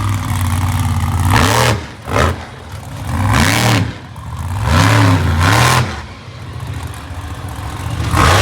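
Monster truck engine revving hard in repeated bursts, its pitch swinging up and down, with about five short loud blasts.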